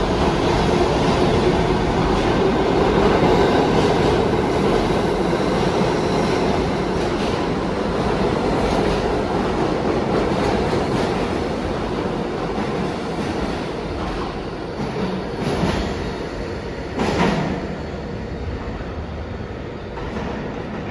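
New York City subway train running through an underground station, its rumble slowly dying away after the first few seconds, with a few sharp knocks near the end.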